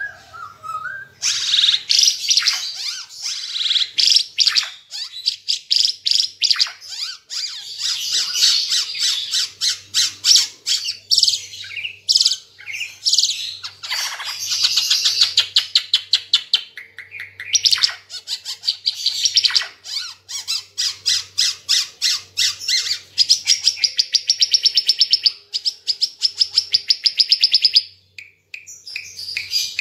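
Ara timor songbird singing loudly and almost without pause: long runs of rapid repeated high notes with sweeping calls mixed in, ending in a fast, even series of notes that stops shortly before the end.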